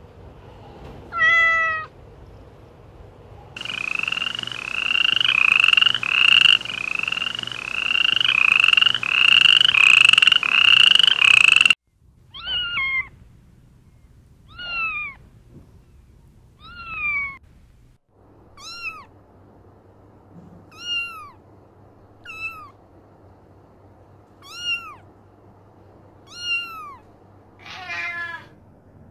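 Kittens meowing in high-pitched voices: one meow, then a long run of rapid repeated cries, then single meows about every two seconds, each falling in pitch.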